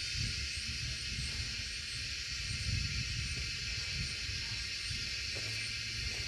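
Wind buffeting the microphone as an uneven low rumble that swells and eases, under a steady high-pitched insect chorus.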